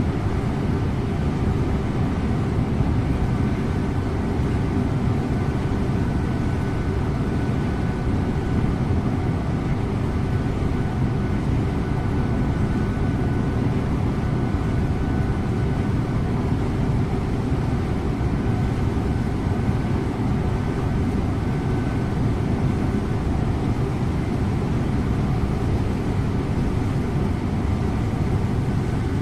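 Scania InterLink bus running steadily on the road, heard from the driver's seat: an even low engine and tyre rumble with a faint steady high whine above it.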